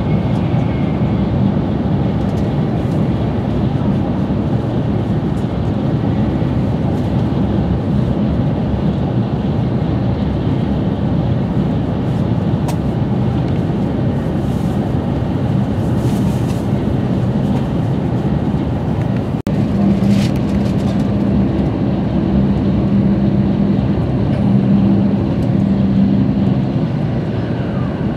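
Shinkansen bullet train running at speed, heard from inside the passenger cabin: a steady rumble of wheels and rushing air, with a low hum that grows stronger in the second half.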